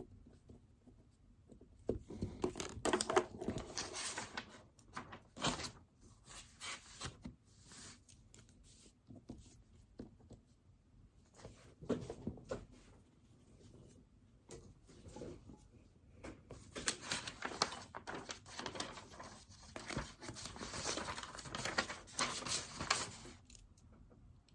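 Paper being handled at a study desk: sheets rustling and shifting in several stretches, one about two seconds in, a short one near the middle and a longer one in the second half.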